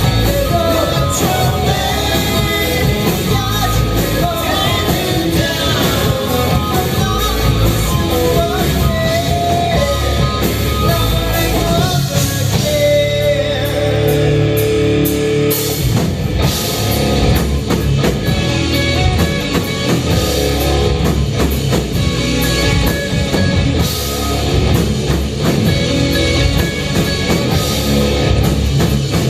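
Rock band playing with electric guitar, drum kit and a singer. About halfway through, a single note is held for a couple of seconds while the band thins out, then the full band comes back in.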